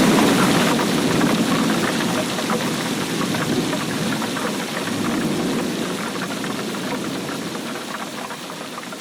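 Heavy rain pattering steadily, with a low rumble of distant thunder swelling near the start and again midway. The whole sound fades down gradually.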